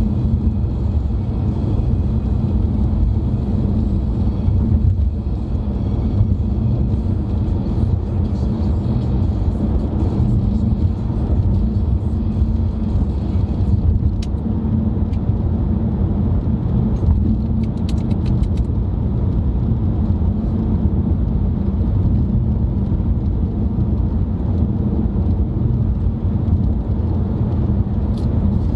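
Steady low rumble of a car driving, engine and tyre road noise heard from inside the cabin, with a few faint clicks near the middle.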